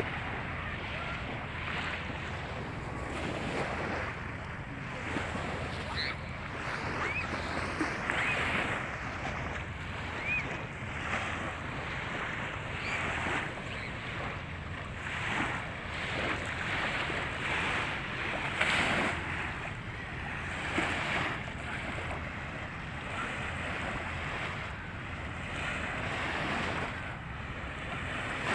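Volga river waves washing onto a sand beach in surges every second or two, with wind blowing across the microphone.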